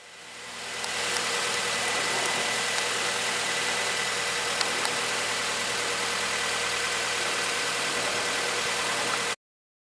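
Car engine idling steadily, with a thin steady whine above the running sound. It fades in over the first second and cuts off suddenly near the end.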